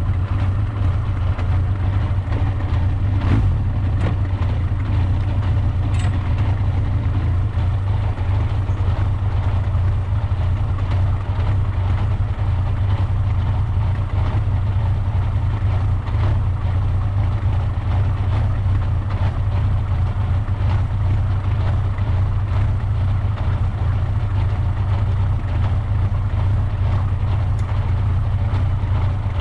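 Motorcycle engine idling steadily, a low even hum with no revving, with a couple of faint clicks about three and six seconds in.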